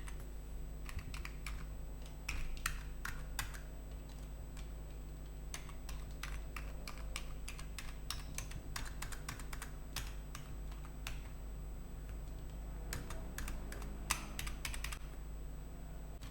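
Computer keyboard keys clicking as they are pressed, in irregular flurries of typing with brief pauses between.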